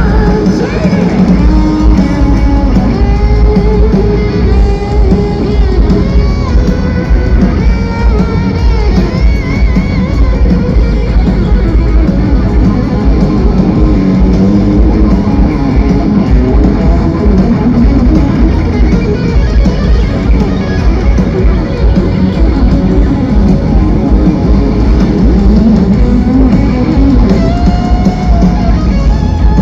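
Loud rock music with electric guitar and drum kit playing continuously.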